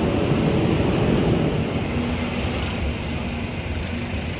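Passenger train's coaches rolling along the track past a station platform: a steady low rumble of wheels on rail that eases a little as the rear coach draws away.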